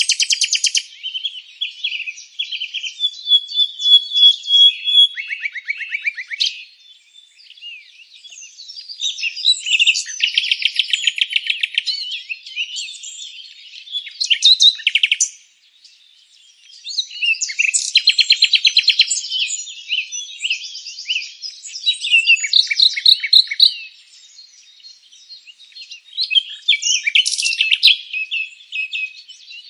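Songbirds singing: high-pitched phrases of rapid trills and chirps that come in bursts, with short pauses between them.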